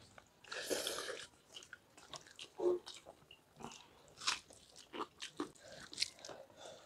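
Two people eating rice and egg curry with their hands: irregular wet chewing and mouth sounds, mixed with short clicks and rustles of fingers working rice on steel plates.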